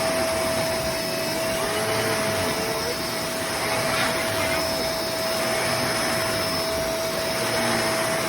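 Bissell MultiClean Allergen Pet upright vacuum running steadily, a constant motor noise with a steady whine.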